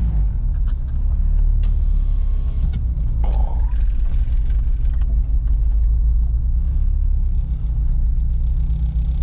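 Steady low rumble of a running turbocharged Honda CR-V, with a brief higher-pitched rising sound about three seconds in.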